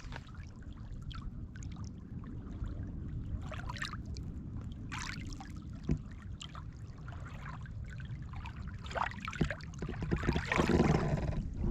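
Small lake waves lapping against the shore, with soft, irregular splashes and trickling, getting louder near the end.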